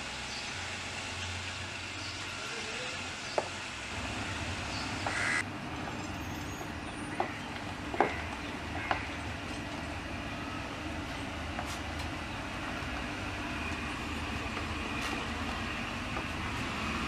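Toyota Land Cruiser SUV's engine running steadily at low revs, with a few short sharp clicks in the middle.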